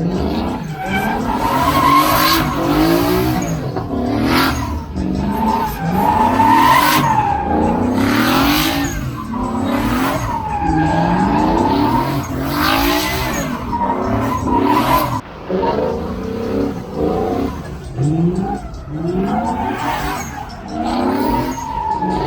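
Truck engines revving hard again and again, each rev rising in pitch, over steady tire squeal: trucks doing burnouts.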